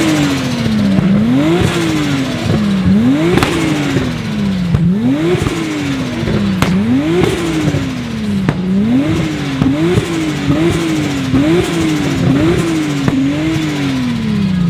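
A sports car engine being revved repeatedly: each rev climbs quickly and falls away slowly, about every two seconds at first, then in quicker, shorter blips from about nine seconds in, before the revs drop at the end.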